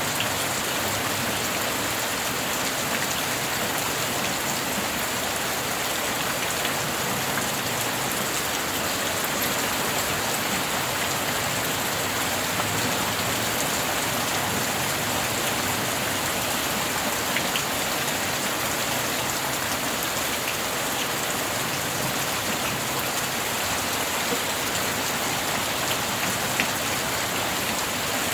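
Steady rain falling, an even hiss of many drops, with a few sharper drop ticks standing out now and then.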